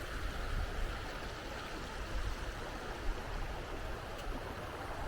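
Creek water rushing steadily over its bed, with an uneven low rumble of wind on the microphone.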